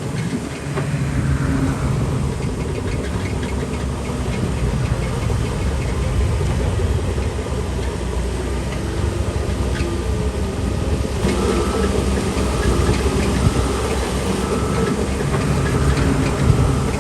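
Heavy diesel earthmoving machinery running steadily, a bulldozer or dump truck engine under work. In the second half a short high beep repeats about once a second.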